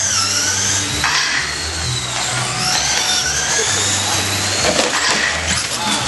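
Several radio-controlled short course trucks racing: their motors whine at once, each pitch rising and falling as the trucks accelerate and slow through the course.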